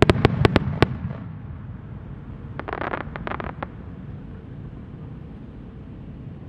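Aerial fireworks bursting: a quick run of about six sharp bangs in the first second, then a second cluster of crackling pops about three seconds in, over a steady low background noise.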